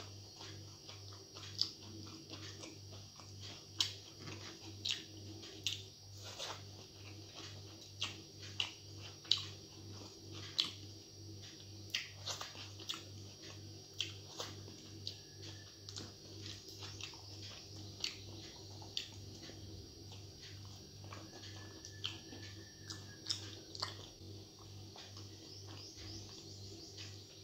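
Close-miked mouth sounds of eating rice by hand: chewing and lip-smacking heard as many sharp, irregular clicks. A steady low hum runs underneath.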